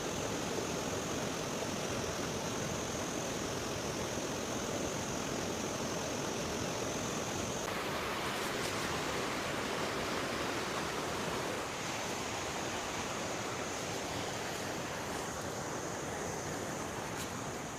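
River water rushing steadily, with a steady high-pitched whine above it that stops for about four seconds in the middle.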